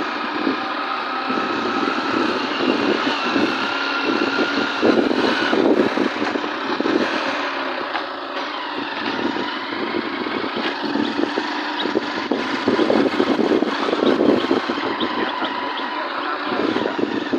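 Motorcycle running steadily while being ridden, its engine under a continuous rushing noise with uneven gusts.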